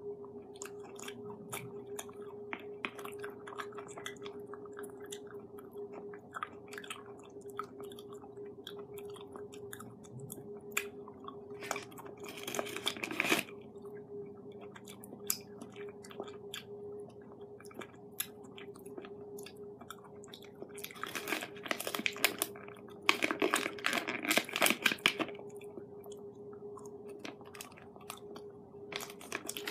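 Close-up chewing of pieces of a Ritter Sport strawberry cream chocolate bar, with many small wet mouth clicks and a faint steady hum underneath. A few louder bursts come about twelve seconds in and again twice near the end.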